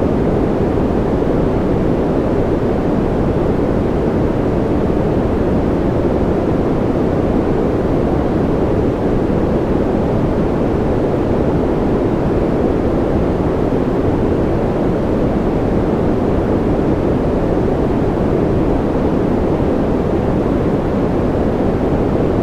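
A steady white-noise track: a constant, even hiss with a deep, muffled tone that never changes.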